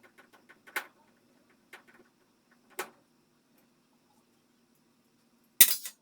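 Small clicks and taps of tools and parts being handled, with two sharper knocks and a louder short clatter near the end.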